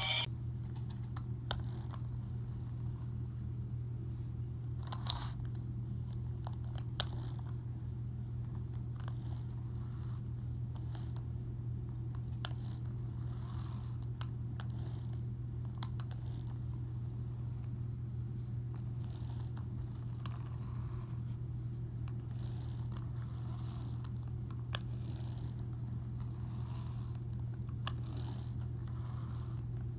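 A steady low hum, with scattered faint clicks and short scratchy noises over it.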